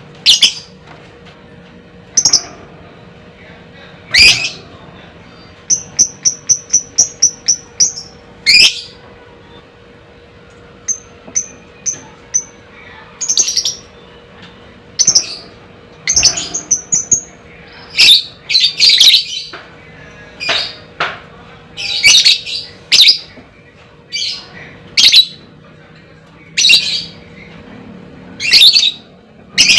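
Lovebird giving loud, shrill, short calls at irregular intervals, with a quick run of short repeated notes, about five a second, starting about six seconds in.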